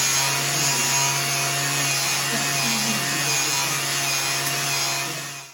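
Power-driven wire brush scrubbing rust and paint off a metal dirt bike part: a steady abrasive scratching over the even hum of the motor. It cuts off near the end.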